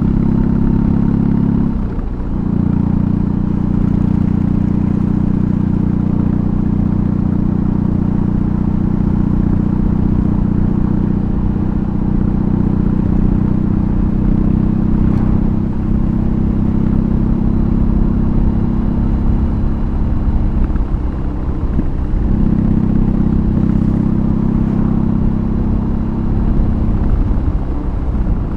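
BMW R18's big boxer-twin engine through a custom exhaust, running steadily under way with a deep, even note. About two seconds in the note drops briefly and picks up again, and it shifts slightly a few more times later on.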